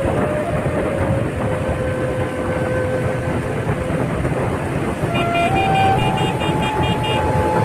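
Road traffic noise with vehicle horns: a long held horn tone over the first few seconds, then a higher held horn and a rapid warbling horn pattern about five seconds in.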